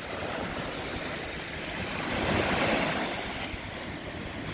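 Surf washing onto a sandy beach, one wave swelling louder about two seconds in and easing off, with wind rumbling on the microphone.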